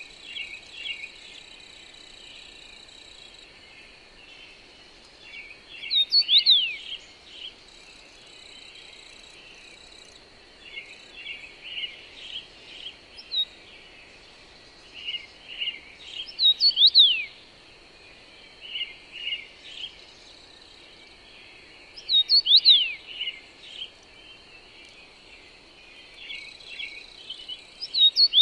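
Songbirds singing over a steady soft wind-like noise. One bird repeats a loud phrase of quick downward-sweeping whistles four times, between constant quieter chirping and a thin steady high whine like insects.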